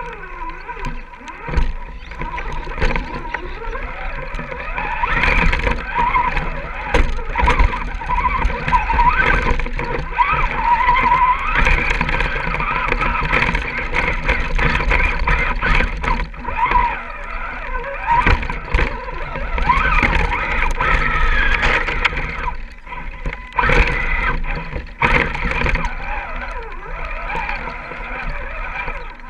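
Electric motor and gearbox of an Axial SCX10-series RC rock crawler whining, the pitch rising and falling with the throttle, with frequent knocks and clatter from the chassis and tyres working over rough ground.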